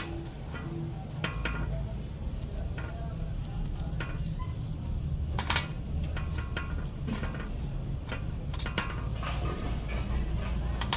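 Scattered metallic clinks and taps from tools and parts being handled during brake servo work, over a steady low rumble.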